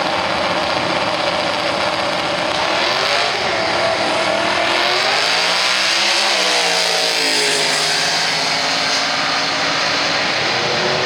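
Twin-turbocharged two-valve V8 car accelerating hard under boost. The engine note climbs to a peak about six seconds in, drops, then holds steady.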